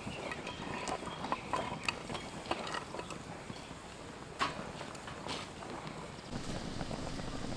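Wood campfire crackling, with irregular sharp pops and snaps. A soft steady rushing noise joins in near the end.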